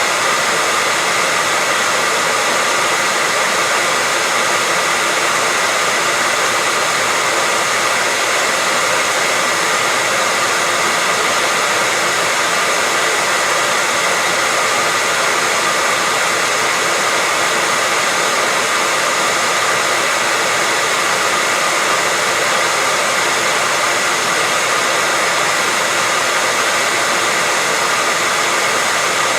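Electric hair dryer running steadily, a constant rushing whoosh with a faint steady whine, with no change in speed.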